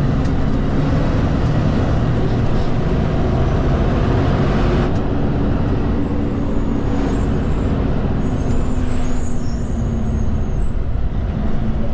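Kenworth K200 cab-over road train's Cummins diesel engine running steadily, heard from inside the cab as a low drone with road noise; the engine note shifts slightly about five seconds in.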